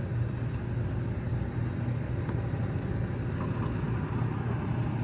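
Heavy truck diesel engine running steadily under load during a winch recovery, with a few faint clicks.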